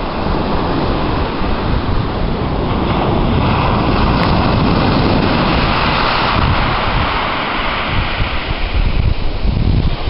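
Gentle sea waves breaking and washing over a shingle beach, the wash swelling through the middle of the stretch and easing off toward the end, with wind buffeting the microphone.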